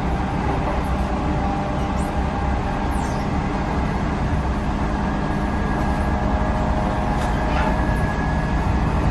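Running sound inside a JR Central 311 series electric multiple unit at speed: a steady rumble of wheels on rail with a steady motor whine over it, slowly growing a little louder.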